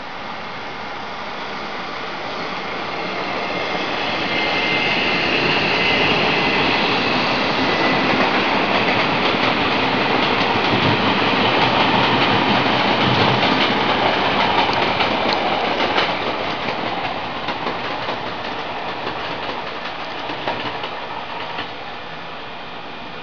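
Taiwan Railway passenger train passing close by. The rumble of its wheels on the rails swells, is loudest for about ten seconds, then fades as it moves away, with the wheels clacking over rail joints in the second half.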